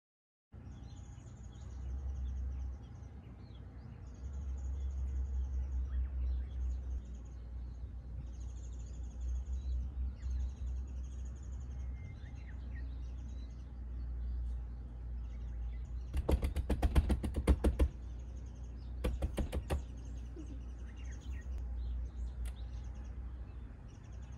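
Birds chirping in short repeated calls over a steady low rumble. About two-thirds in come two brief bursts of rapid clicking or rattling, the loudest sounds here.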